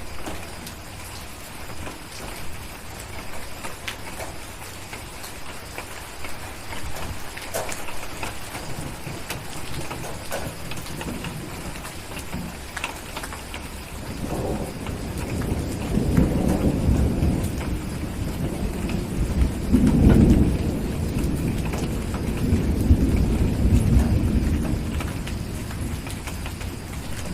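Steady rain, with a long roll of thunder that builds about halfway through, swells several times and fades away near the end.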